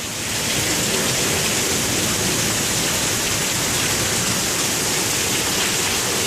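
Heavy rain and wind of a severe thunderstorm: a loud, steady, even rush.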